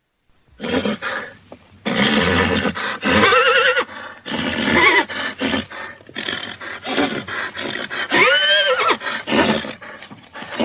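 Horses neighing and whinnying: several wavering calls after a moment of silence at the start, the loudest a long whinny that rises and then falls in pitch near the end.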